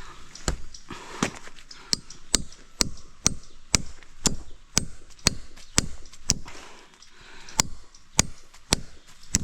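Repeated chopping strokes, about two a second, with one short pause about two-thirds of the way through: a blade hacking into wood or vegetation.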